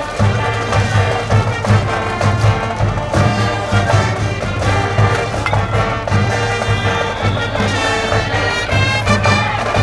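High-school brass band playing a cheering tune, trumpets and trombones over a steady drum beat.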